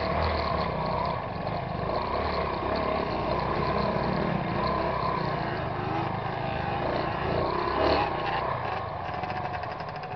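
Trail motorcycle engine running at low revs, its pitch rising and falling with the throttle as the bike picks its way up a muddy, rutted trail, with a brief louder knock about eight seconds in, after which the engine runs quieter.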